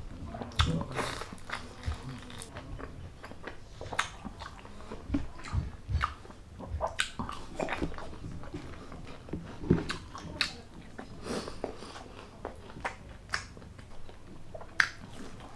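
Close-miked chewing and biting of crispy fried chicharon bulaklak (deep-fried pork mesentery), with sharp crunches coming irregularly throughout.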